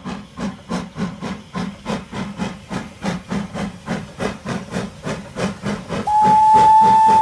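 Steam-locomotive sound effect, of the kind a toy Thomas train plays: steady chuffing at about four chuffs a second, then a single long whistle near the end, the loudest part.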